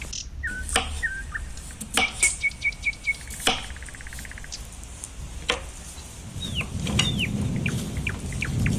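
Small birds chirping in short calls, with a quick run of repeated notes and a few falling whistles, mixed with several sharp clinks of metal utensils or dishes. A low rustling noise builds in the last few seconds.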